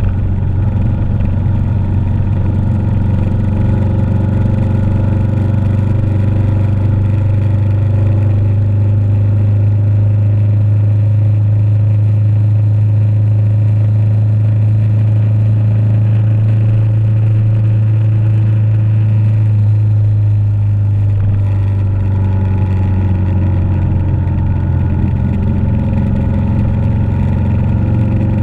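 Motorcycle engine running steadily while riding at cruising speed, with a deep, even drone; the engine note shifts a little in pitch about two-thirds of the way through.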